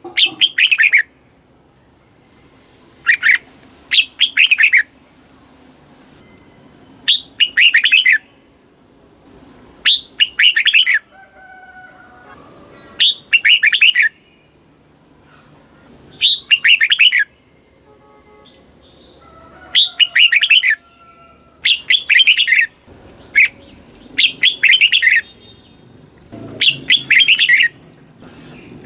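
Red-whiskered bulbul singing: short, bright warbled phrases about a second long, repeated every three to four seconds. Fainter, lower bird calls sound in the gaps between phrases.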